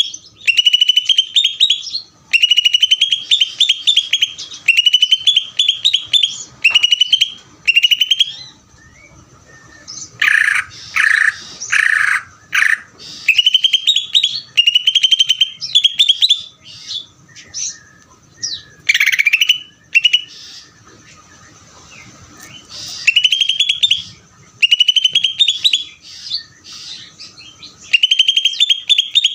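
Cucak ijo (green leafbird) singing nonstop ('ngeder'): loud phrases of quick rising trills about a second long, repeated one after another. About a third of the way in comes a harsher, louder run of notes, and roughly three quarters of the way through there is a pause of about two seconds.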